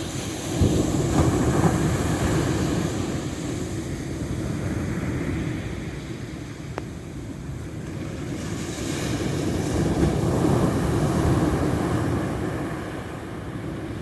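Ocean surf: a wave breaks suddenly about half a second in and washes out slowly, and a second wave swells from about eight seconds, peaks, and fades near the end.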